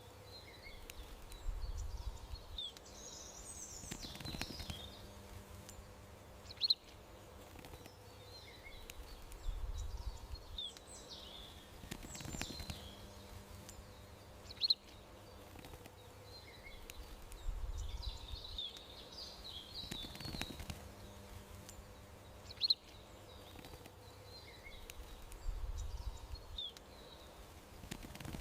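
Garden ambience of birds chirping: short, high chirps and twittering scattered over a soft low rumble, the same pattern repeating about every eight seconds like a looped recording.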